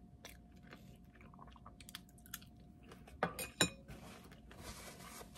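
A person chewing a mouthful of soft cheesecake, with faint wet mouth clicks. About three seconds in come two sharper clicks, the loudest sounds here, and near the end a soft rustle.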